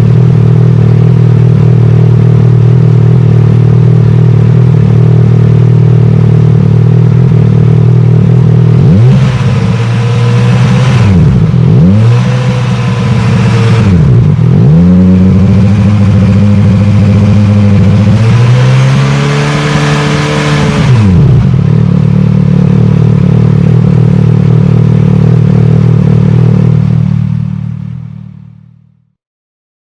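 Yamaha Aerox 155 scooter's stock exhaust, its sound edited to resemble a big bike. It idles steadily, is revved several times in the middle, then idles again and fades out near the end.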